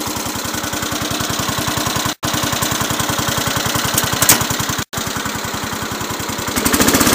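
Cub Cadet 107's Kohler K-241A 10 hp single-cylinder engine running steadily with an even firing beat, getting louder near the end. It sounds good now that a new fuel filter and fuel line are fitted.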